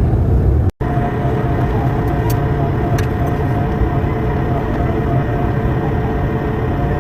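Steady roar of an airliner's jet engines and airframe heard inside the passenger cabin during landing, a heavy rumble with a steady hum. It cuts out for an instant less than a second in, then carries on unchanged.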